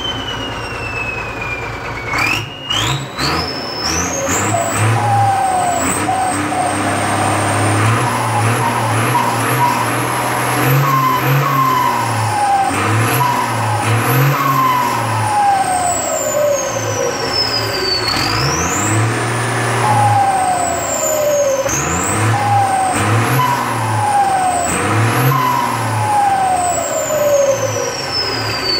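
Six-cylinder Ford tractor engine with an aftermarket turbocharger being revved again and again, the turbo giving a loud whistle that climbs to a high shriek as the revs rise and slides back down as they fall. A few sharp pops come about two seconds in, just before the first big rise.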